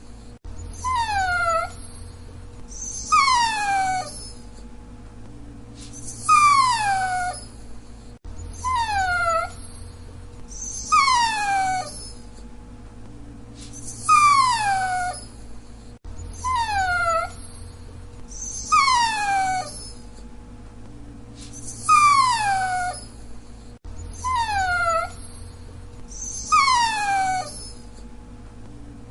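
A dachshund whining: short, high whines, each falling in pitch and lasting under a second, in groups with pauses of a few seconds between them. The same eight-second stretch repeats as a loop.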